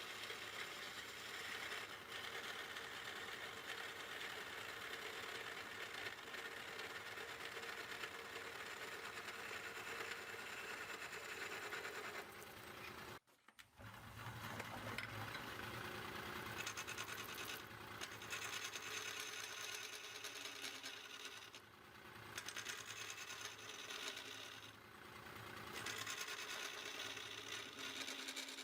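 Wood lathe running while a carbide-tipped turning tool cuts the inside of the spinning wood, giving a steady scraping cut. The sound drops out abruptly for under a second about halfway through, then carries on.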